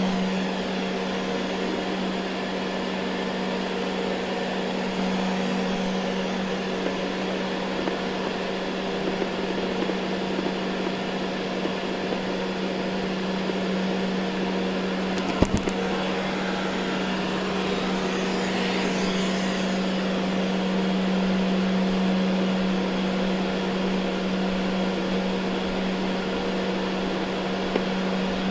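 Ecovacs Deebot N79 robot vacuum running over carpet: a steady motor hum with a constant low drone under a hiss of suction. A brief sharp knock sounds about halfway through.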